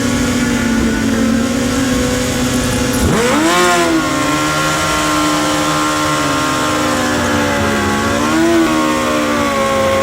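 Motorcycle engine held at high revs, revved up sharply about three seconds in and again briefly near eight and a half seconds.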